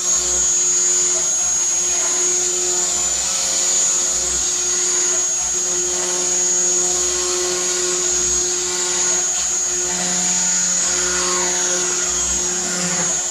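CNC router spindle running with a steady high-pitched whine while cutting 12 mm plywood, with a few lower machine tones that slide downward near the end.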